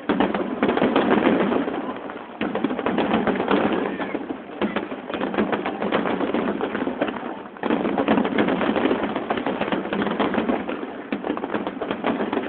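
Fireworks finale: dense, rapid crackling and popping from many shells and fountains going off at once. The sound is thin, with no deep booms, as a phone's microphone picks it up. The crackle jumps louder suddenly at the start and again a little past halfway.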